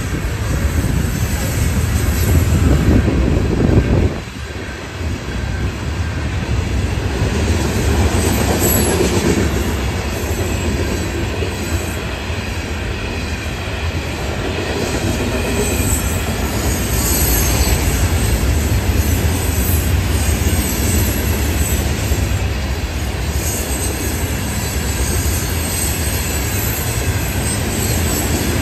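Street traffic for the first few seconds, then a long freight train rolling past a grade crossing: a steady heavy rumble of the cars' wheels on the rails.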